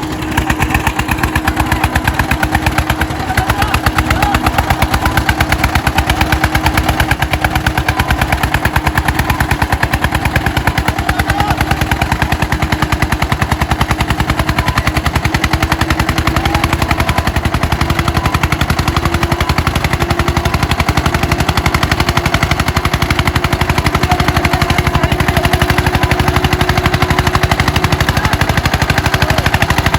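Eicher 241 single-cylinder diesel tractor engines running hard under load in a tractor tug-of-war: a loud, rapid, even chugging of exhaust beats.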